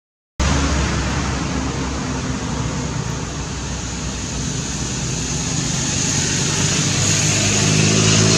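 Steady rushing noise like passing road traffic, with a motor vehicle's engine drone growing louder near the end. The sound cuts out briefly at the very start.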